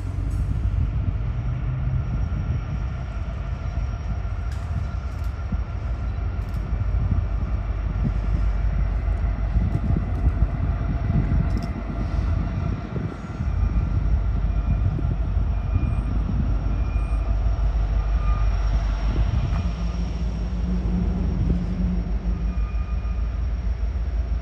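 Union Pacific double-stack intermodal freight train rolling past: a steady low rumble of the train, with faint high squeaks in its second half.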